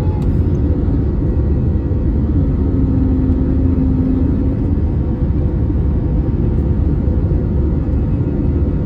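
Passenger airplane's engines and airflow heard from inside the cabin during takeoff: a loud, steady low rumble with a steady hum over it.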